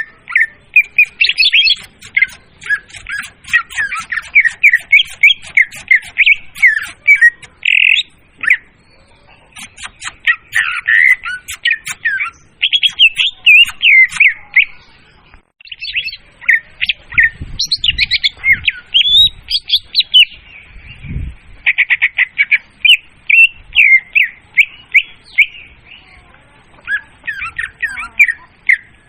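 Leafbird (murai daun) song played as a bird-trapping lure call: long phrases of fast, varied chirps and whistled notes, loud and clear, with short breaks about 9, 15 and 21 seconds in.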